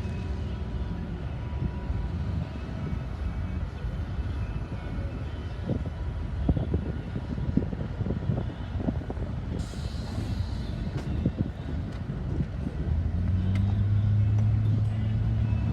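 Union Pacific freight train rolling past with a steady low rumble and a run of sharp wheel knocks about halfway through. Near the end a steady low diesel drone comes up.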